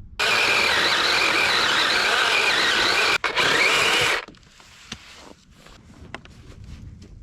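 Electric chainsaw cutting into a tree, a loud even cutting noise with a high whine, running about four seconds with a brief dip near the end before it stops suddenly.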